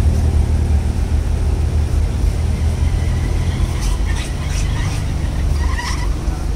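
Deep, steady engine rumble of cars idling and creeping at low speed, with a few short clicks between about four and six seconds in.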